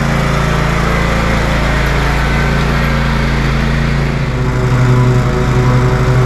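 Lawn tractor engine running steadily under mowing load, growing a little louder about four and a half seconds in.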